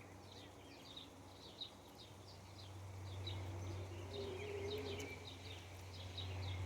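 Small birds chirping, with many short high notes several a second, over a steady low hum that grows louder in the second half.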